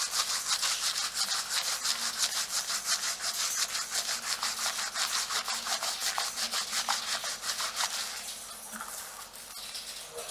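Fingers and nails scratching and rubbing through hair on the scalp in quick, even strokes, about five a second, fading out near the end.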